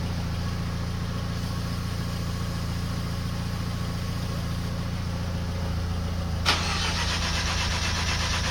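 Mazda RX-7 rotary engine cranking on its starter without catching, a steady low drone. About six and a half seconds in there is a sharp click, and a louder rushing noise follows.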